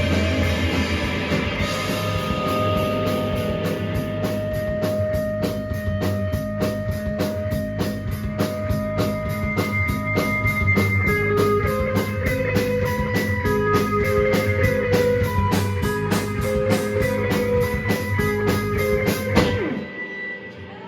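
Rock band playing live: electric guitars, bass and a drum kit driving a fast, steady beat with no singing. Near the end the band stops hard on a loud final hit, leaving a guitar ringing.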